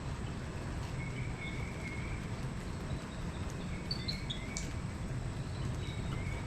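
Steady low background noise, with an animal's short warbling chirps repeating every second or so and one brief click about four and a half seconds in.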